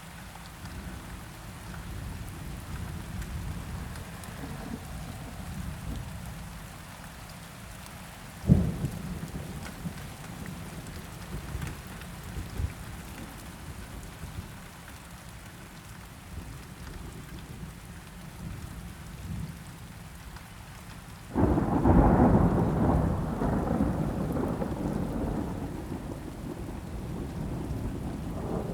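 Steady rain with thunder: a sudden sharp crack about eight seconds in, then a loud thunderclap about three-quarters of the way through that rolls on and slowly fades.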